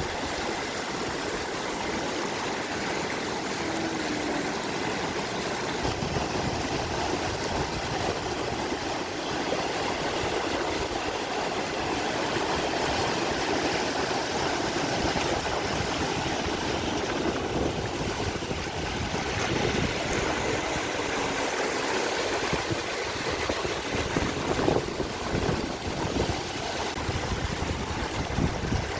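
Water from a street fountain cascade running and splashing steadily.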